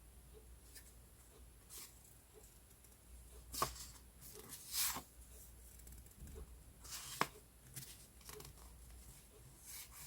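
Sheets of decorative paper being handled and shuffled: scattered soft rustles and swishes, with two sharper snaps about a third of the way in and again past the middle.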